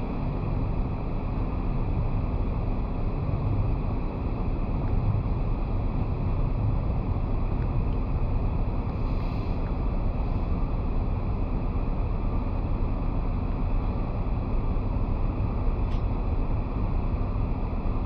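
Steady, deep rush of wind over a roof-mounted GoPro's microphone, with the road noise of the car driving along underneath.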